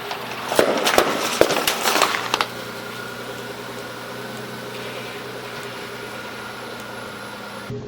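Car tyre rolling over and crushing crunchy objects: a quick run of sharp cracks and crunches lasting about two seconds, starting just under a second in. After it the car's engine keeps running steadily.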